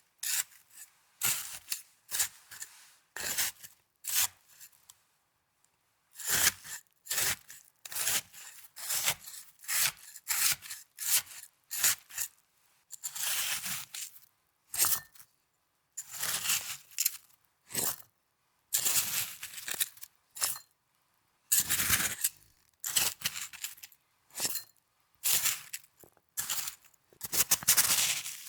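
Snow being handled close to the microphone: a run of short, scratchy bursts, each a second or less, with brief silent gaps and a longer pause about five seconds in.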